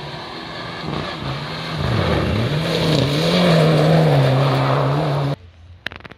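Rally car coming through the stage flat out, its engine note rising and dropping with each gear change and growing louder as it nears, with a noisy rush of tyres on the road beneath it; the sound cuts off abruptly about five seconds in.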